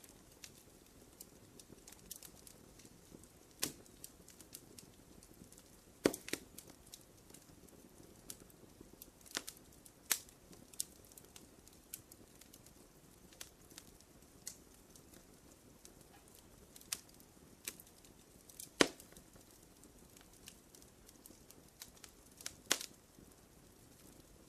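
Wood fire crackling: irregular small pops and snaps over a low hiss, with a few sharper, louder pops.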